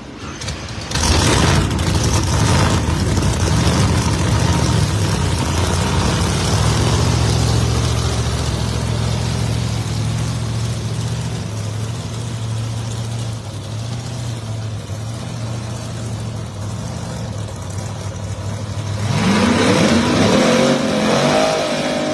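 Drag race cars launching hard off the line about a second in and running at full throttle down the strip, a loud sustained engine sound that slowly eases. Near the end an engine revs up with a clearly rising pitch.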